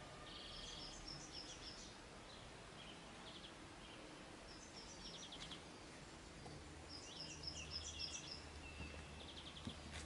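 Faint songbird singing, the same short high phrase of quick stepped notes repeated three times, with a low steady hum underneath in the second half.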